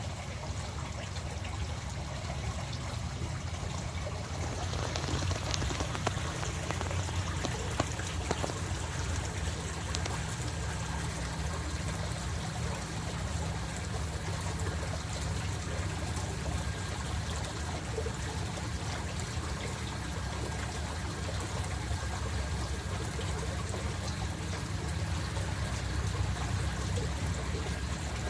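Water trickling and running in a garden stream, a steady splashing hiss that grows fuller about four and a half seconds in.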